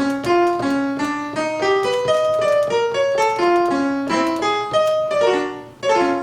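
Piano-like keyboard instrument sound in Native Instruments Maschine, played one note at a time on the pads in keyboard mode. The notes come about three a second, stepping up and down in pitch.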